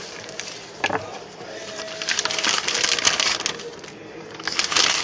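Plastic gallon-sized freezer bag crinkling and rustling as it is handled and filled, in two bouts, the second short one just before the end.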